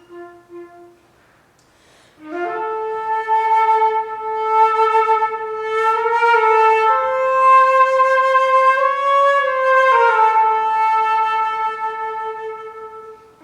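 Unaccompanied flute playing: after a short breath about two seconds in, a slow line of long held notes that steps up and then back down, tapering off near the end.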